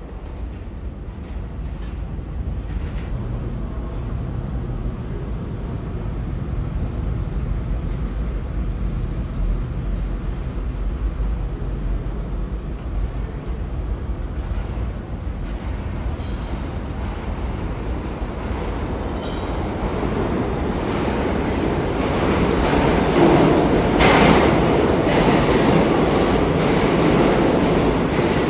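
New York City subway train rumbling through an underground station, getting steadily louder and fuller about two-thirds of the way in, with a sharp louder moment near the end.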